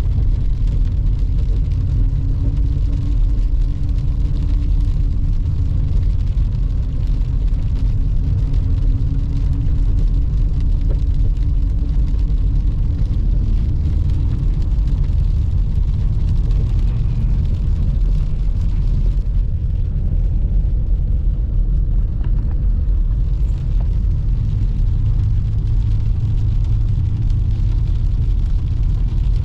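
BMW E39 M5's 4.9-litre V8 running at a steady cruise under a deep, continuous road and tyre rumble.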